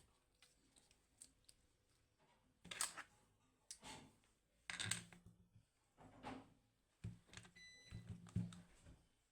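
Faint, scattered clicks, knocks and short scuffing noises, with a brief high beep about three quarters of the way through.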